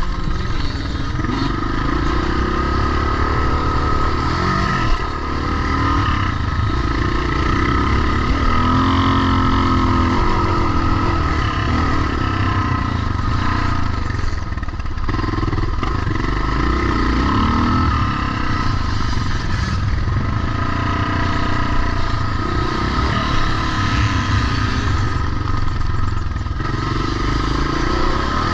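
Vintage pre-1990 motocross motorcycle engines revving up and down as they ride, the pitch rising and falling again and again.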